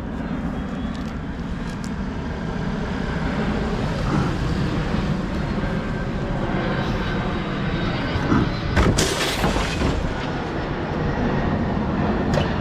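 A car or truck driving: steady engine and road noise, with a short sharp clatter about nine seconds in.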